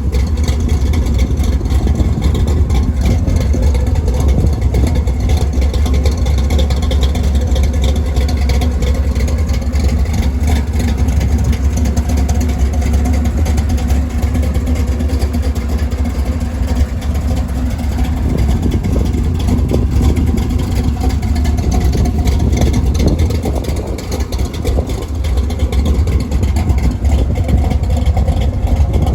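1966 Plymouth Belvedere's 383 big-block V8 running steadily and loud, with a short dip in level about 24 seconds in.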